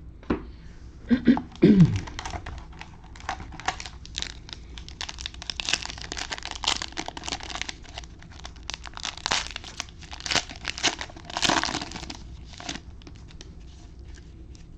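Crinkling and tearing of a trading-card pack's wrapper being opened by hand, with quick irregular crackles for about ten seconds.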